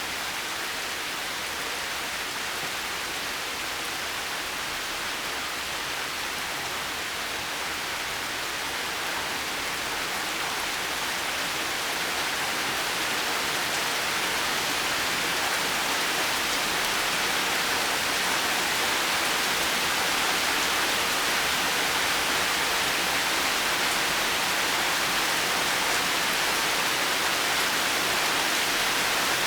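Steady rain falling, a dense even hiss with no single drops standing out, growing slightly louder partway through.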